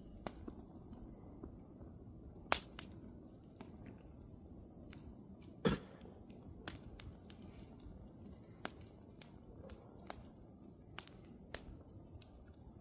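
Wood campfire crackling: irregular sharp pops and snaps over a low steady hiss of burning, with two louder pops about two and a half and five and a half seconds in.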